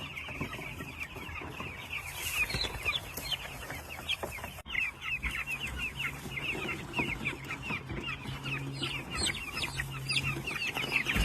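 A flock of three-week-old broiler chicks peeping continuously, many short, high, falling peeps overlapping one another.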